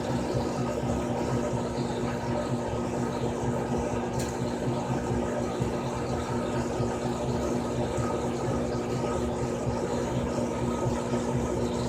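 Frigidaire Gallery Series top-loading washing machine running: a steady motor hum with the sound of water moving, without a break.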